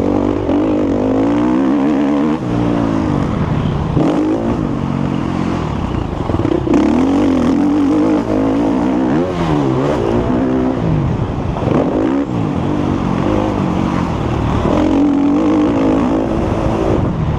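Motocross bike engine revving hard and falling back over and over, its pitch climbing and dropping every second or two as it accelerates, shifts and brakes around the track.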